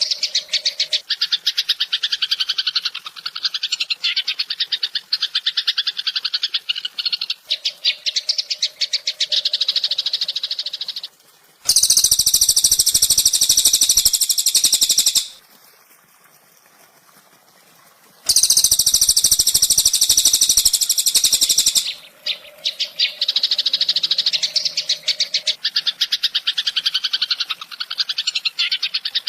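Bird-song training recording: rapid, chattering songbird trills made of fast repeated notes. Two loud, high-pitched buzzing stretches of about three and a half seconds each come in near the middle, with a short quiet gap between them.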